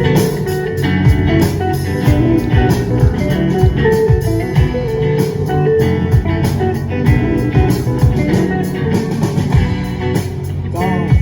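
Live rock band playing an instrumental passage: electric guitars, bass guitar and a drum kit keeping a steady beat.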